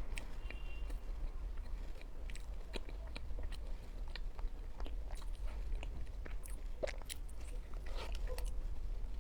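A person biting and chewing a flaky-crust mooncake close to the microphone: irregular soft crunches of the flaky pastry and wet mouth clicks. A steady low hum lies beneath.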